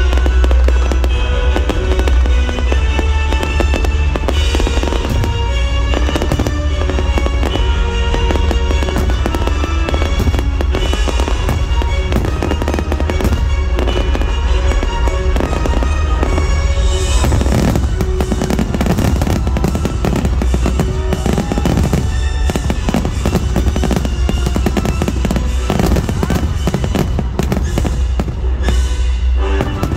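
Fireworks display bursting and crackling over loud music from the show's loudspeakers. The bangs grow denser from a little past halfway, into a crackling finale.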